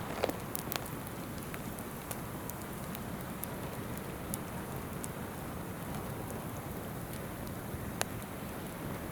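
Wood fire crackling with scattered sharp pops, a louder one about 8 seconds in, over the steady rush of a flowing river.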